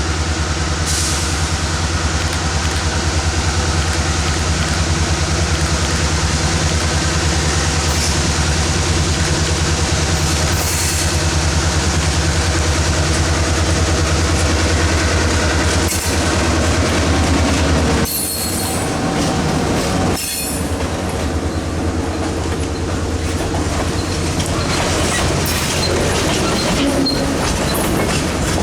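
Freight train rolling past at close range: a steady low diesel drone with rail clatter and wheel squeal, the drone dropping away about two-thirds of the way through as the cars keep rolling.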